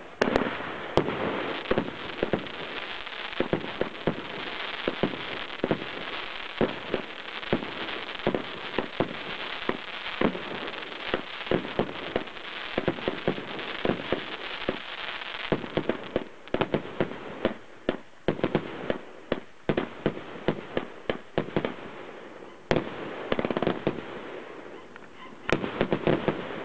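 A 42-shot fireworks cake firing: shots and star bursts follow one another with dense crackling for about the first fifteen seconds, then come as separate sharp bangs, with a loud shot and another spell of crackling near the end.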